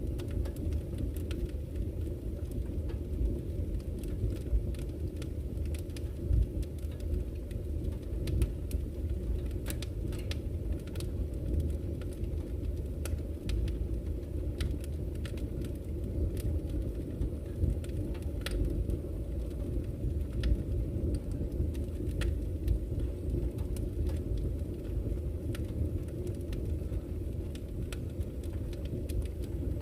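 Campfire crackling, with frequent sharp pops scattered irregularly, over a steady low rush of flowing river water.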